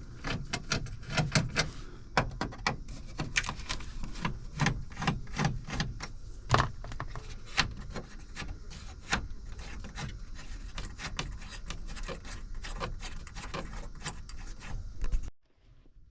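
Hand tools working screws and handling a cover panel under a truck's steering column: a steady run of small clicks, taps and scrapes, cutting off abruptly near the end.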